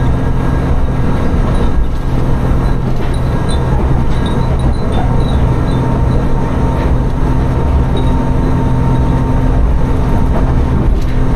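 Inside a diesel railcar running between stations: a steady engine drone and wheel rumble on the rails. Small glass wind chimes hung in the car tinkle lightly now and then, mostly a few seconds in.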